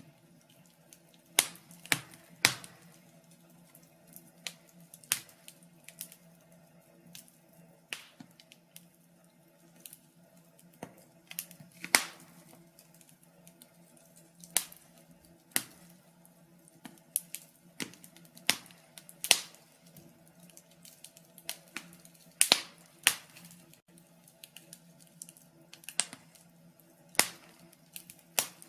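Wood fire crackling in a fireplace: irregular sharp pops and snaps of burning logs, some louder than others, over a faint steady hum.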